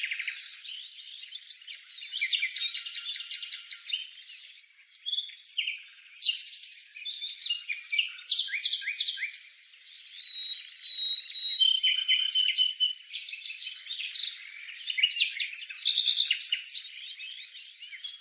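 Streaked spiderhunter calling: a busy run of high chirps, rapid chattering trills and short clear whistles, with brief pauses between bouts.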